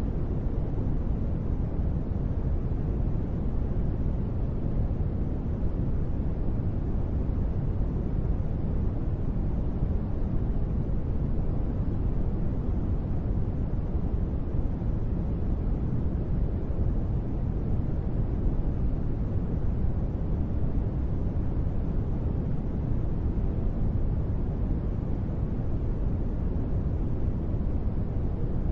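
Steady, unchanging rushing noise of gentle rain rendered as white noise. It is heaviest in the low end, with no separate drops, thunder or music.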